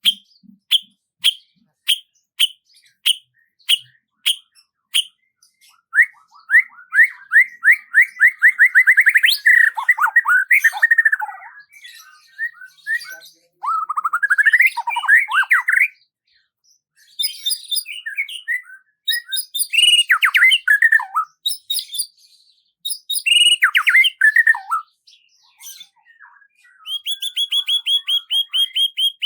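Songbirds singing: a run of sharp chip notes, about two a second, gives way to fast trills and warbled phrases, ending in a rapid, even trill.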